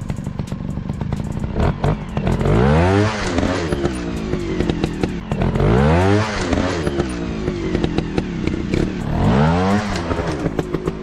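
Small trail motorcycle engine revving up and back down three times, over steady running, with clattering knocks throughout.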